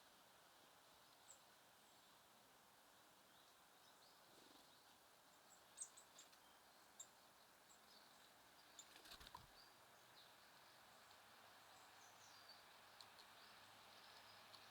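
Faint, scattered short chirps of small songbirds at a feeder over a quiet outdoor hiss, with a soft knock about nine seconds in.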